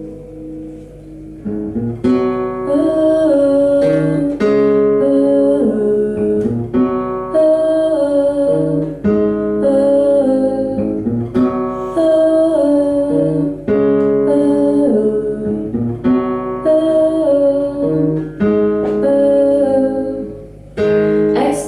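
Acoustic guitar playing an instrumental break: a picked figure repeating about every two seconds, ending with a strong strum near the end.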